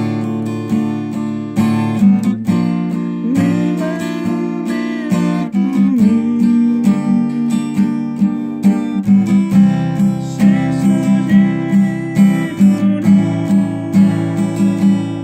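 Acoustic guitar strummed in a steady rhythm, playing the song's chord accompaniment, with crisper, evenly spaced strokes in the second half.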